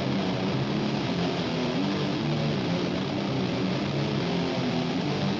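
Heavily distorted electric guitars of a doom/death metal mix, playing sustained low notes that shift every second or so, with a dark tone from the UAD Ampex ATR-102 tape machine emulation.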